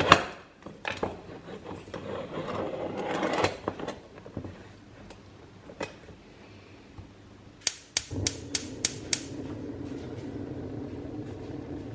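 Household objects being handled and put away: knocks, clicks and a few seconds of rustling, then a quick run of about six sharp clicks. Right after the clicks, a steady low hum starts and keeps going.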